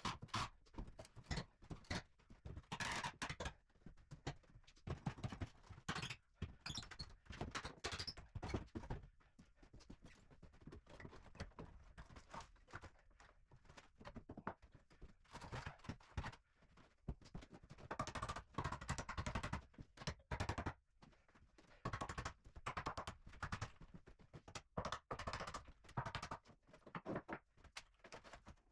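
Wooden floorboards being pried up and pulled out: irregular knocks and thuds of wood, with a few denser stretches of scraping and clattering.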